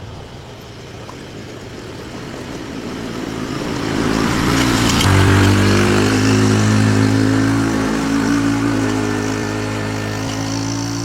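Truck driving on a road: engine and road noise build up over the first few seconds, then settle into a steady engine drone.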